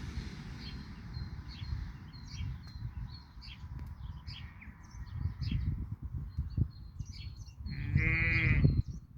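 Small birds chirping and singing all the way through, over a steady low rumble. About eight seconds in, one loud sheep bleat lasts just under a second.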